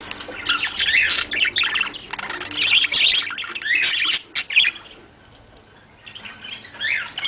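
Small pet parrots chattering and squawking in several bursts of quick, high calls, with a short lull about two-thirds of the way through.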